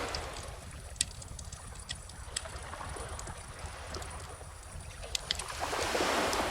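Bonfire crackling with scattered sharp pops, over calm ocean waves washing in; one wave fades at the start and another swells up near the end.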